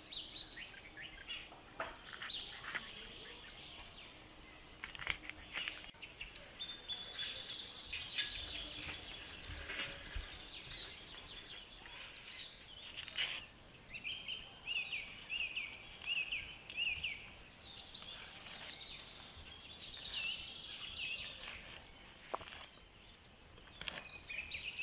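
Small birds chirping and calling, with a run of quick repeated chirps midway. Scattered light clicks and taps come through as well.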